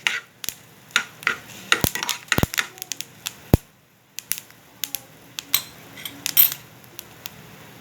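Mustard and white sesame seeds spluttering and popping in hot oil in a kadhai: irregular sharp pops, with a few louder knocks.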